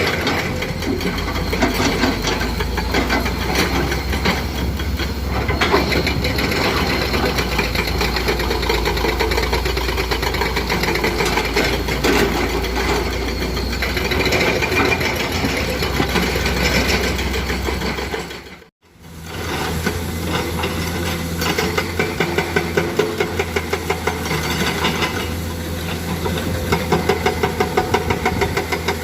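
Six-cylinder diesel engine of a Komatsu PC200 excavator running under load, with some rattling. The sound cuts out for a moment about two-thirds through, then comes back with an even pulsing of about four beats a second.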